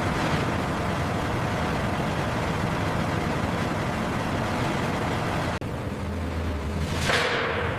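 Heavy industrial machinery running with a dense, noisy rumble. About five and a half seconds in, it cuts sharply to a steadier low machine hum, and a falling whoosh comes about a second later.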